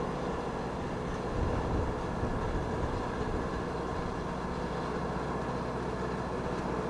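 Steady jet aircraft engine noise, with strong gusty wind buffeting the microphone and a rumbling gust about a second and a half in.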